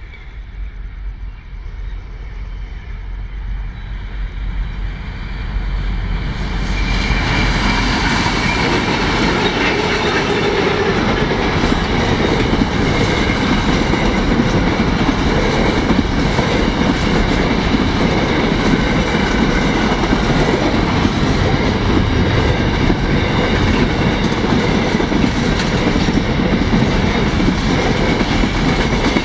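Diesel-hauled container freight train approaching and passing close by: the sound builds over the first six or seven seconds as the locomotives come past, then the container wagons roll by with a loud, steady rumble and rattle of wheels on the rails.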